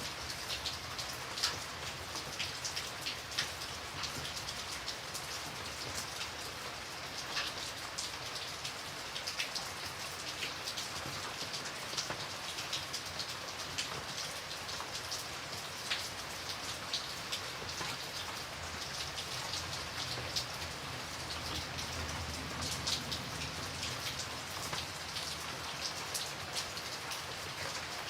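Steady rain, with many individual drops ticking sharply on a hard surface over the even hiss of the downpour.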